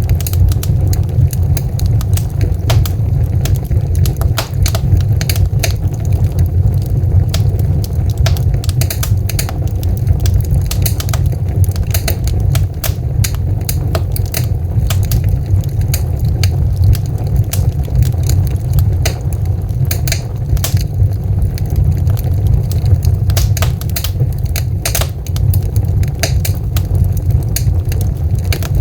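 Wood fire crackling, with frequent sharp irregular pops and snaps over a steady low rumble of the burning logs.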